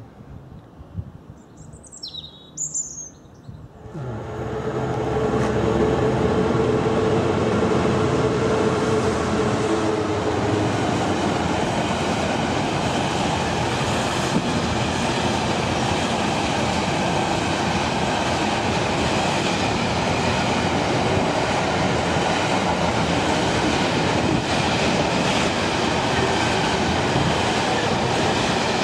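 A Class 66 diesel freight train comes through loudly from about four seconds in, its engine running and its wagons rolling steadily past. A bird chirps briefly just before.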